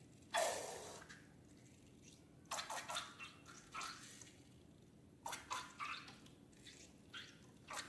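Wet squelching and dripping of slime and liquid ingredients being handled, in short irregular bursts. The loudest is a sudden burst about a third of a second in that fades over about half a second.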